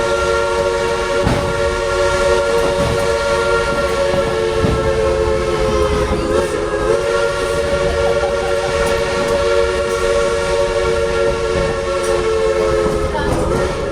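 Train's multi-note whistle held as a long chord of several tones, wavering briefly about halfway and again near the end, over the rumble of the rolling railroad cars.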